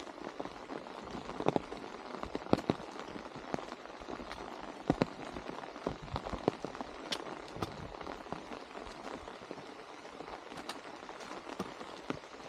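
Steady rain, with single drops striking irregularly close by as sharp ticks over the hiss.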